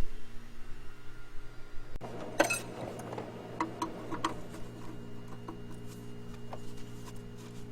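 A steady mechanical hum, joined by a few light metallic clicks and taps a couple of seconds in.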